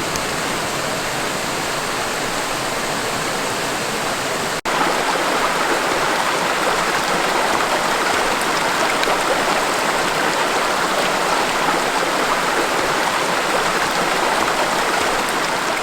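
Steady rushing water noise, with a brief cut about four and a half seconds in, after which it is slightly louder.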